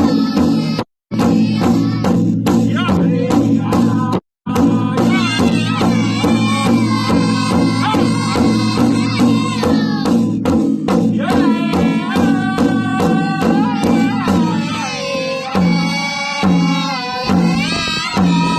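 A powwow drum group singing in unison over a steady, evenly struck beat on a shared drum. The sound cuts out twice briefly near the start, and the drumbeats grow sparser in the last few seconds.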